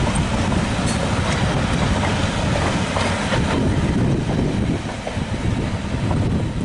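Train rolling past with a steady heavy rumble, its wheels clicking now and then over the rail joints.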